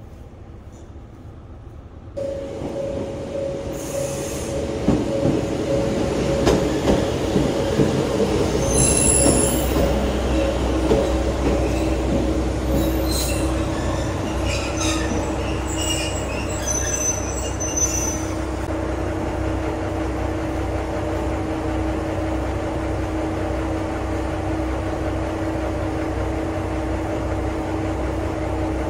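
Diesel railcar of the Minato Line at the station, starting up loudly about two seconds in, with a steady engine drone. High wheel squeals and clicks come over the next several seconds, then it carries on running steadily.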